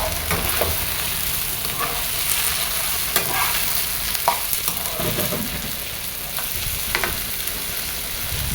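Shrimp frying in a pan, a steady sizzle, with a utensil stirring and clacking against the pan now and then.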